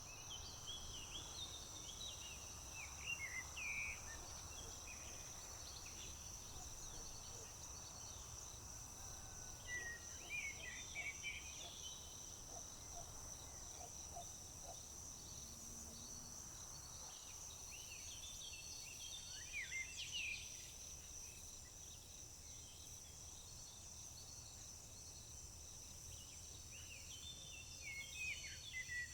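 Crickets trilling in a steady high drone, with a songbird singing a short bright phrase about every nine seconds, four times in all.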